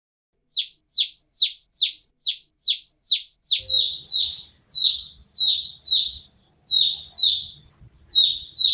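Baby chick peeping. It gives a quick run of eight high cheeps falling in pitch, then from about three and a half seconds in a slower string of peeps over a faint low rumble.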